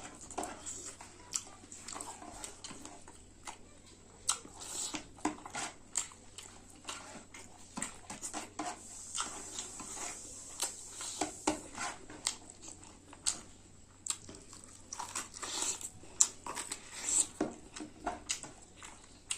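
Close-up eating sounds: a person chewing meat and rice with wet mouth smacks and clicks, coming irregularly several times a second.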